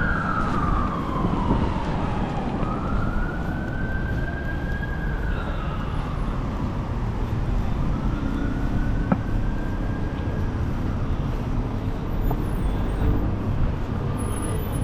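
Emergency vehicle siren in a slow wail, its pitch rising and falling several times before fading out about ten seconds in, over steady road-traffic rumble. A single sharp click sounds near the nine-second mark.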